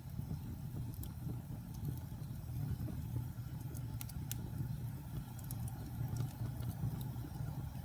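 Wood fire burning in a fireplace: a steady low rumble of flames with scattered sharp crackles and pops, two clearer pops about four seconds in.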